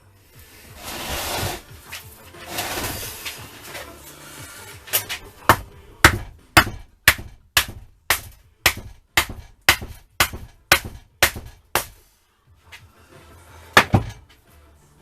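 Hammer blows on a seized Yamaha FZR1000 engine's rusted cylinder barrels to drive them off the pistons: a steady run of about fourteen sharp strikes, roughly two a second, then a short pause and one more blow near the end.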